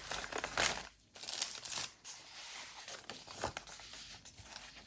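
Paper pages of a handmade junk journal rustling and crinkling as they are turned and handled, in several irregular bursts with a short pause about a second in.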